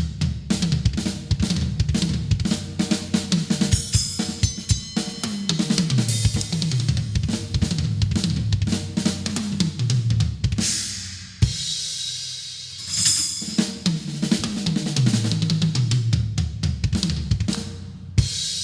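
A drum kit being played: kick drum, snare, hi-hat and cymbals in a busy groove with fills, closing on a loud cymbal crash that rings out.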